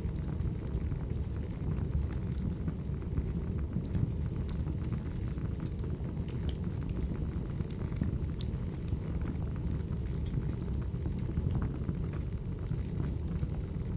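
Firewood burning: a steady low rumble of the fire with scattered, irregular sharp crackles and pops.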